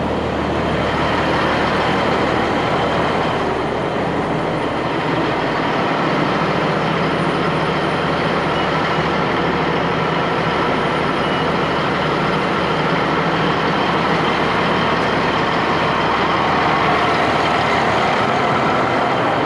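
Heavy diesel engine running steadily, with an even noise and no distinct events.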